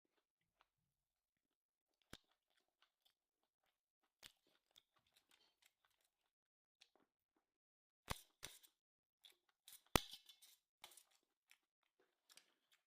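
Very faint eating sounds from a person eating fried rice: scattered soft crunches and chewing clicks, with a few sharper, louder clicks about eight to ten seconds in.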